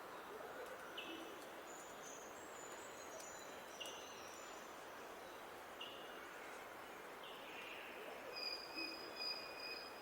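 Songbirds singing over a steady background hiss. One bird gives a short note every two to three seconds, higher twittering comes in the first half, and a long thin whistled note sounds near the end.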